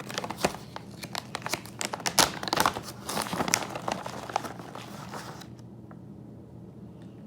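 Crinkly plastic or paper being crumpled and torn, a dense run of crackles that stops suddenly about five and a half seconds in.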